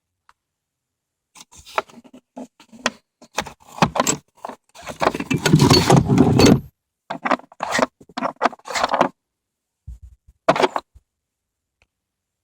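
Irregular metallic clinks and rattles in short bursts: the Kia Sorento's underslung spare tire hoist being worked to tighten a spare that was left loose and was rattling over bumps.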